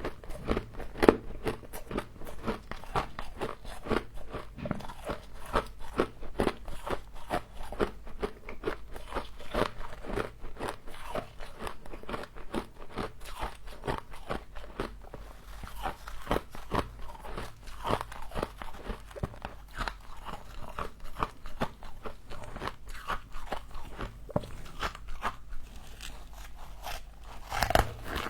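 Frost being bitten and chewed close to the microphone: a dense, continuous run of crisp crunches and crackles, a little louder near the end.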